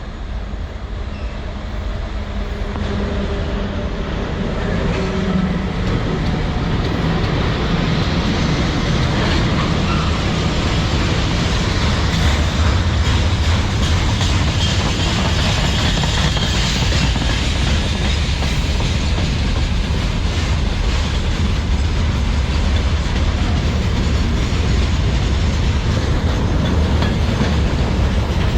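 Freight train rolling past close by, its wagon wheels clattering over the rail joints. The noise grows louder over the first few seconds, then holds steady and loud.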